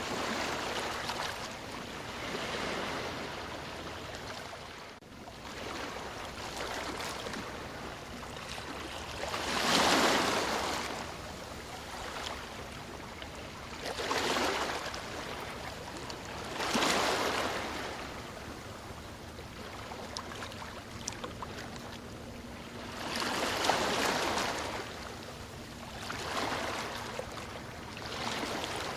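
Ocean waves breaking on a shore, a steady wash of surf with a swell of louder breakers every few seconds.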